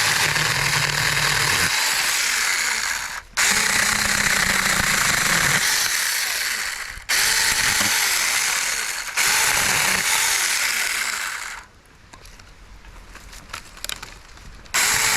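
Supstable 6-inch cordless mini chainsaw running in long bursts as its chain cuts through shrub branches about 1.5 inches thick. The motor cuts out briefly twice, goes quieter for a few seconds near the end, then runs loud again.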